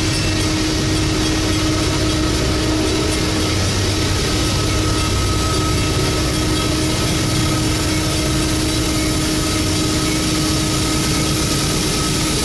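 Diesel locomotive engine running steadily, a low rumble with a steady hum over it.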